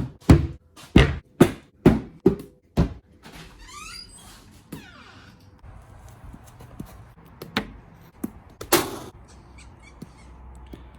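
A run of sharp knocks, about two a second, for the first three seconds, then a brief rising squeak and a few scattered knocks later on.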